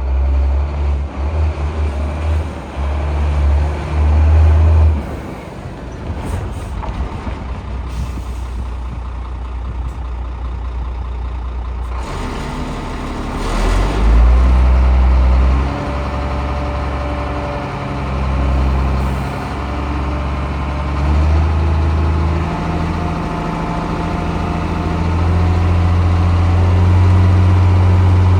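Scania P380 dump truck's six-cylinder diesel engine running, its low drone stepping up and down in speed, with a burst of air hiss about halfway through.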